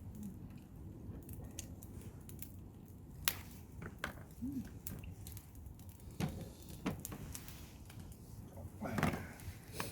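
Scattered light clicks and taps of tableware and food being handled, over a low steady rumble, with a brief vocal sound near the end.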